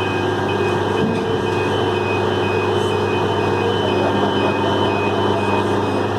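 Heavy diesel engine running steadily under load, with a vehicle back-up alarm beeping in a regular on-off pattern over it.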